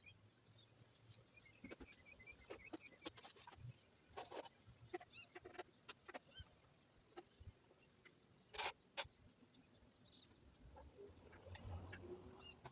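Faint chirping of birds, with scattered light clicks and knocks, the loudest pair about eight and a half seconds in.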